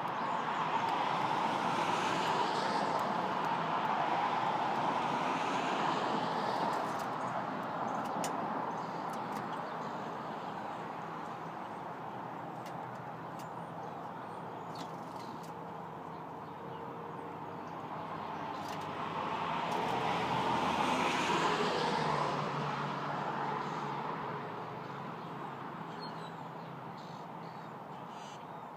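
Road traffic: vehicles passing by, their noise swelling near the start and again about two-thirds of the way in, with a few faint ticks in between.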